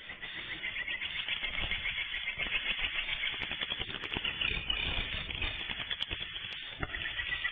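Dense, continuous chorus of swiftlet chirps and twitters, with no break.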